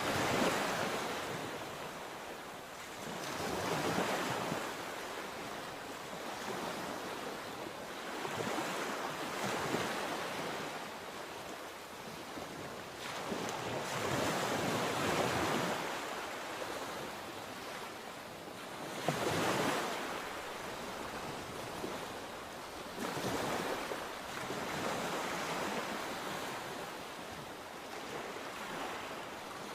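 Sea waves breaking and washing on the shore, the surf swelling and fading every few seconds, with some wind on the microphone.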